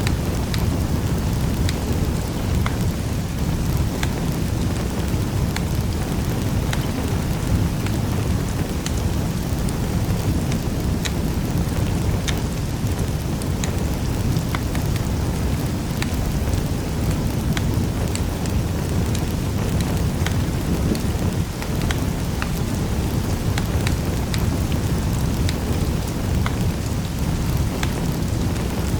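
Fire crackling in a fireplace: a steady low rush of burning with frequent sharp, irregular pops and crackles.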